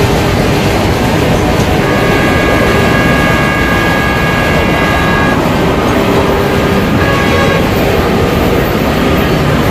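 Passing trains rumbling steadily, the sounds of several train clips mixed together. A train horn sounds for about three and a half seconds starting about two seconds in, and briefly again about seven seconds in.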